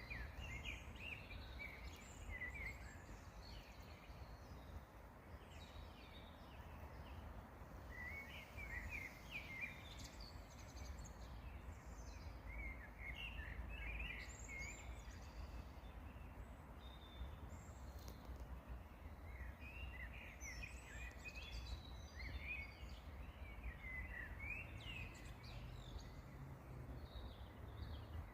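Songbirds singing in short, quick phrases that come every few seconds, over a steady low rumble.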